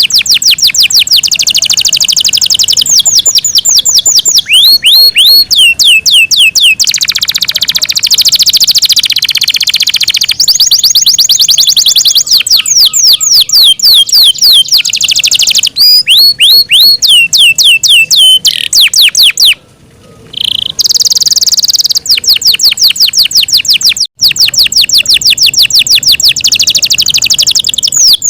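Yorkshire canary singing a long, loud song of fast trills: runs of rapidly repeated high notes, some falling in pitch, and a buzzy rolled phrase, with one short pause about two-thirds of the way through.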